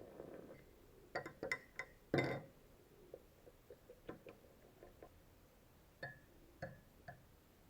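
Light clinks and knocks of hard objects being handled, like tools or small metal parts. A quick run of them comes about a second in, the loudest about two seconds in, then fainter scattered ticks follow.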